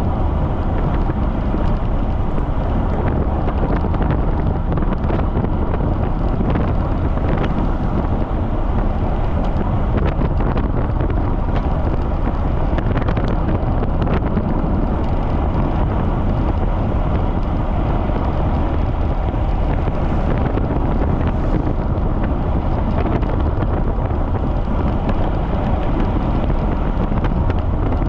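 Strong wind rushing over the microphone of a camera riding along on a road bike at speed: a steady, loud rumble with no breaks.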